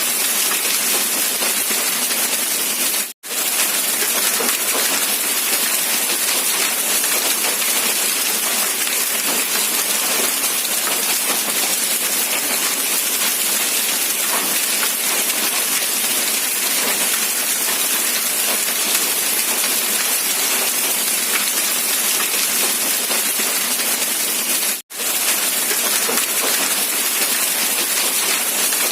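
Rain falling steadily, an even hiss of drops with little low end. The sound cuts out for an instant twice.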